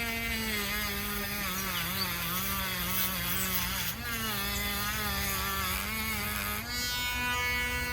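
Small electric power tool's motor running with a whine, used to clean and polish a bone knife handle. Its pitch dips and wavers as it is pressed into the work, then holds steadier for the last second or so.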